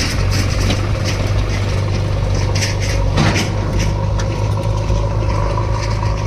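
A heavy diesel engine runs steadily, with a few sharp knocks about three seconds in.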